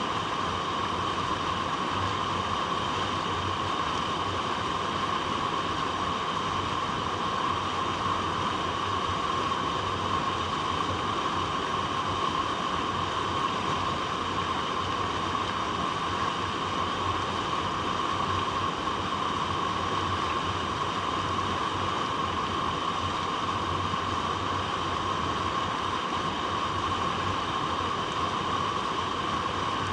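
Flowing water running over rocks: a steady rush that does not change.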